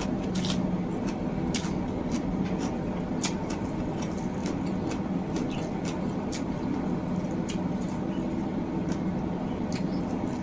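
Close-miked eating of rice noodles in curry sauce: wet chewing and squishing with scattered sharp mouth and utensil clicks, about one or two a second, over a steady low hum.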